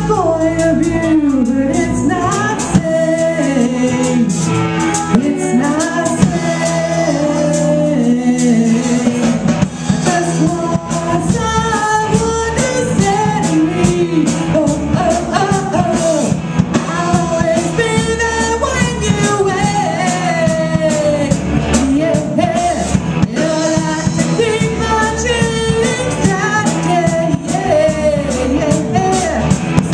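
A rock band playing a song: a sung lead vocal over guitar, bass and drums, with a steady beat.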